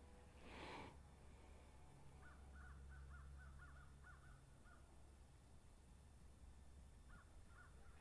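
Faint bird calls: runs of short, quick notes, one about two seconds in and another near the end, over a low steady hum. A brief whoosh about half a second in is the loudest sound.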